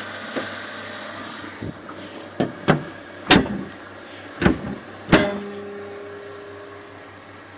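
2003 Kia Spectra GSX's 1.8-litre four-cylinder engine idling steadily, drawing air through an aftermarket air filter. About six sharp knocks or clicks come in the middle.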